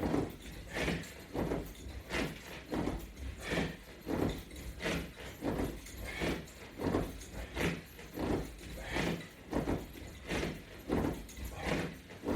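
A person breathing hard in a steady rhythm, about one breath every two-thirds of a second, while working through core exercise repetitions.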